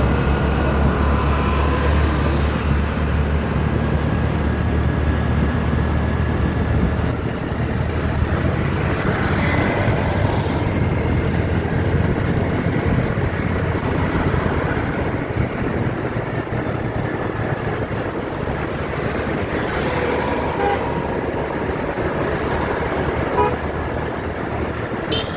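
City road traffic: vehicle engines running steadily, with a few short horn toots.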